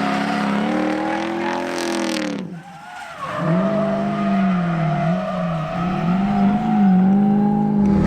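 Toyota 1UZ 4-litre V8 in a drift-built Lexus IS300 running hard on track: the revs climb, fall away sharply about two and a half seconds in, then come back and rise and fall again and again with the throttle.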